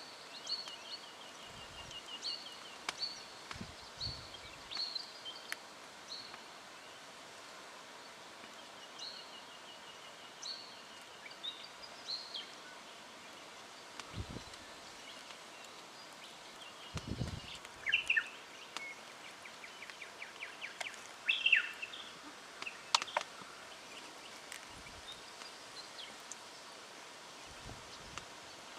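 Striated pardalote calling: short high notes repeated in series, with quick trills among them and louder calls about two-thirds of the way through. A few low thumps sound beneath the calls.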